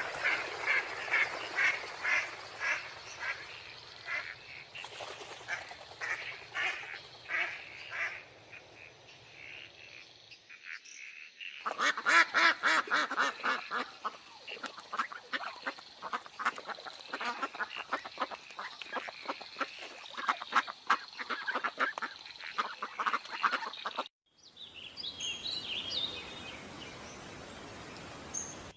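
Ducks quacking in rapid, repeated calls, cut together from a few clips. A quieter, higher chirping comes near the end.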